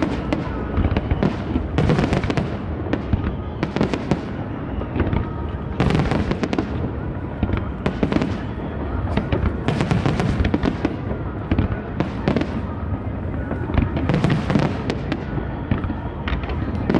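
Aerial fireworks bursting in quick, overlapping volleys: a continuous low rumble of booms with sharp bangs and crackle piling on top of one another, the most intense clusters about 2, 6, 10 and 14 seconds in.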